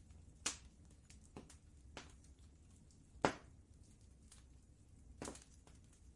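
Wood fire crackling, with irregular sharp pops and fainter ticks, the loudest pop a little past three seconds in. Under it runs a steady low rumble.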